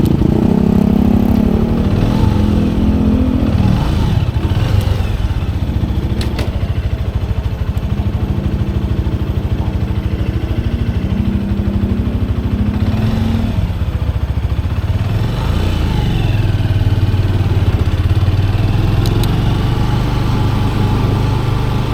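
Motorcycle engine running under way, its pitch stepping up and down several times with throttle and gear changes.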